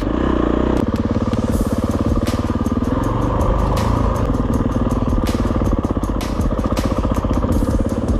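Dirt bike engine running steadily at low revs, with a fast, even firing pulse and scattered sharp clicks and knocks.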